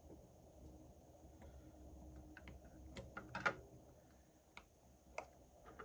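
Scattered faint clicks and taps of small tools and parts being handled on a workbench, with a short cluster of taps a little after three seconds.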